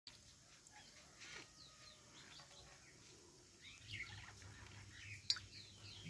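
Birds chirping softly, many short rising and falling calls, with one sharp click about five seconds in.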